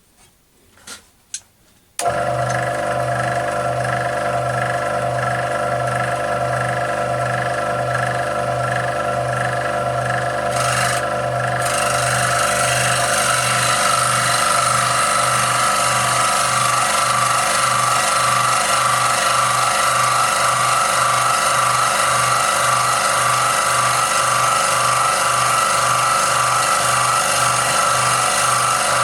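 Scroll saw switched on about two seconds in after a few clicks, running steadily with an even rapid beat from the reciprocating blade as it cuts 3 mm brass plate. About twelve seconds in, a brighter high tone from the blade in the metal grows stronger and holds.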